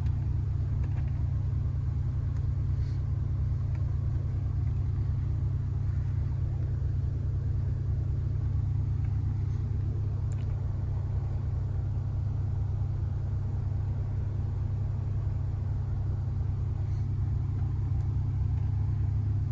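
Steady low rumble with a few faint, light clicks.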